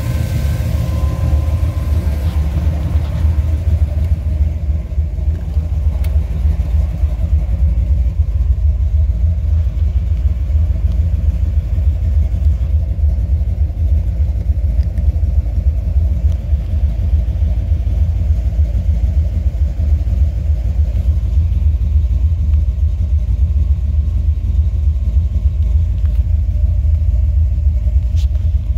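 Buick 455 Stage-1 V8 running at a steady idle, a deep even rumble.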